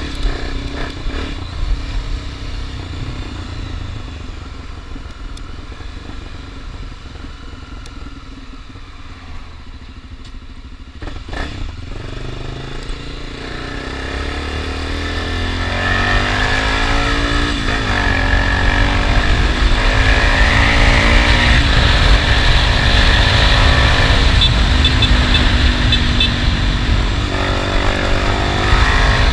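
Honda XRE 300's single-cylinder four-stroke engine under way: running low and quiet at first, then accelerating from about halfway through, the pitch dropping and climbing again at gear changes, with wind rush on the microphone growing loud as speed rises.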